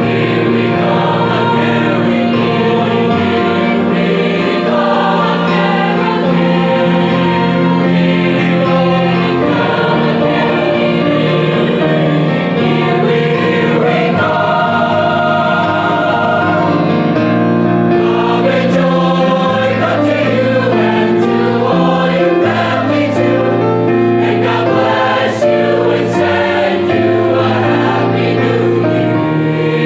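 A choir singing in long, held chords.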